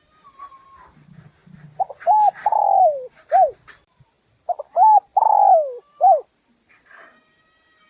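Spotted dove cooing, two call phrases about two seconds apart: each has a couple of short coos, a longer coo falling in pitch, and a closing short coo. These are the urgent territorial coos used as a lure call to provoke wild spotted doves.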